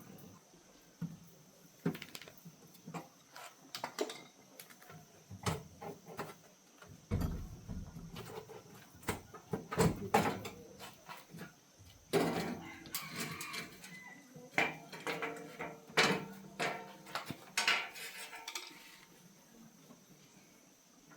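Irregular metallic clinks and knocks of tools and metal parts being handled, busiest in the second half, over a steady high-pitched insect drone.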